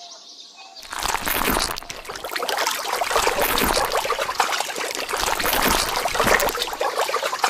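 Water pouring and trickling, starting about a second in and running on steadily.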